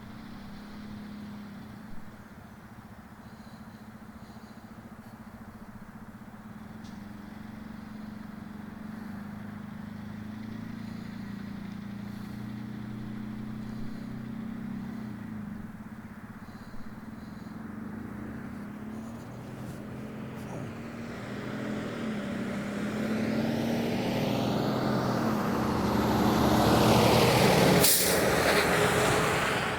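A vehicle engine hums steadily at idle. In the last third a vehicle passes close by: its rush of noise builds, peaks with a sharp click near the end, then begins to fade.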